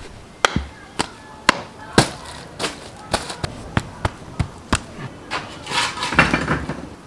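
Hands slapping and patting a thick coat of clay to pack it firm around a lotus-leaf-wrapped ostrich leg, a string of sharp slaps about two a second, then a rougher stretch of handling noise near the end.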